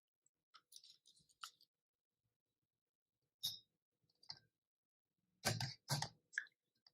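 Faint, scattered clicks and scrapes of a teaspoon against containers as baking soda is spooned in. The loudest few come a little over five seconds in.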